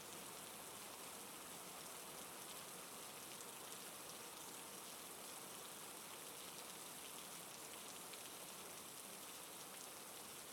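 Steady rain falling, a soft even patter of raindrops.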